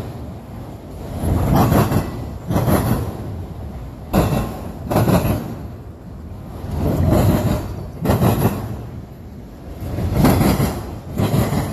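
Freight train cars rolling slowly past at close range: steady rumble of wheels on rail that swells and fades about every one to two seconds as the cars go by.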